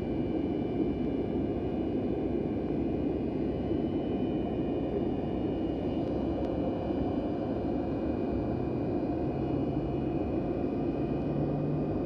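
Four Progress D-18T turbofans of an Antonov An-124 Ruslan running steadily after a cold start: a steady rumble with a thin high turbine whine. A low hum joins in about two-thirds of the way through.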